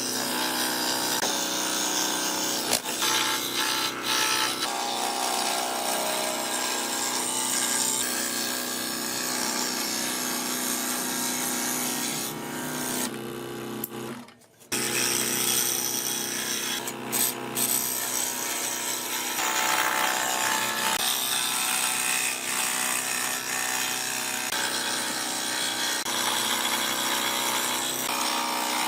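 A power tool working wood, running steadily with a motor whine over the noise of the cut, stopping briefly about halfway through.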